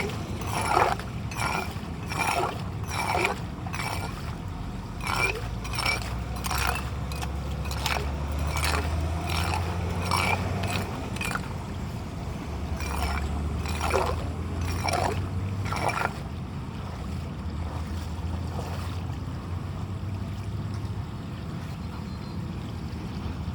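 Floodwater running and gurgling into a blocked street drain, with a run of short, sharp scraping strokes about one or two a second as debris is cleared from the grate. The strokes stop about two-thirds of the way through, leaving the steady rush of water.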